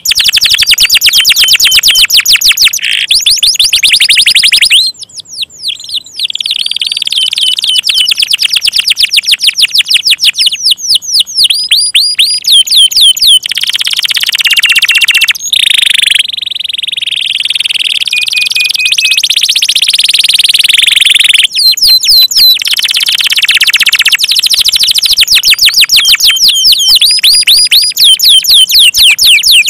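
Domestic canary in full song: long, loud runs of rapid repeated falling whistled notes and trills, broken by short pauses about five seconds in and again around sixteen seconds.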